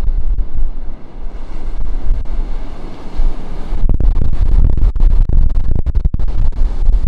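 Ocean surf washing in, with wind buffeting the microphone in a heavy, uneven low rumble. The wash grows louder about four seconds in.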